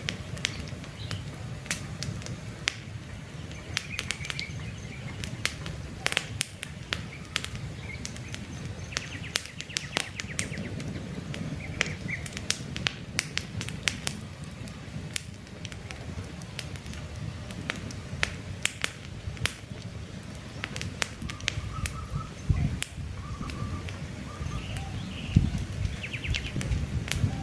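Wood campfire crackling with frequent sharp pops over a low, steady rumble of burning, with short bird chirps now and then.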